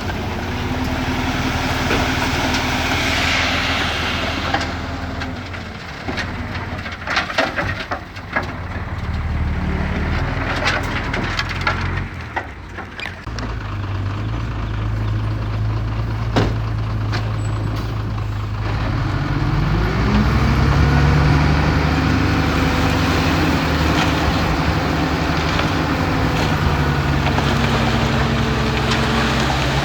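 Heavy diesel earthmoving machinery running, with a string of sharp knocks and clatter a few seconds in, then the engine revving up and holding at higher speed about two-thirds of the way through.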